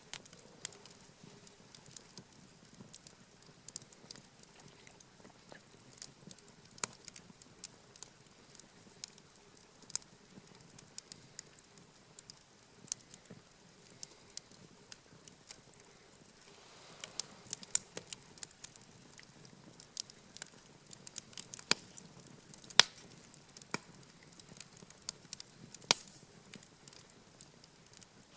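Wood campfire crackling, with irregular sharp pops and snaps over a faint low hiss of burning. The pops come thicker and louder in the second half.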